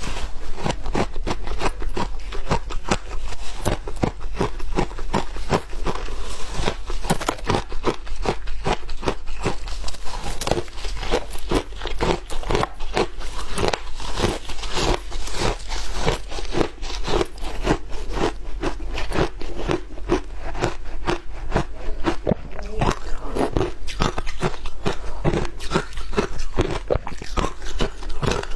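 A person biting and chewing shaved ice: continuous crisp crunches, about three to four a second, without a break.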